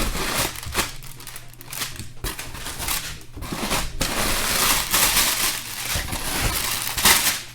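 Bubble wrap packing rustling and crinkling as it is handled and pulled out of a cardboard shipping box, with irregular crackles throughout.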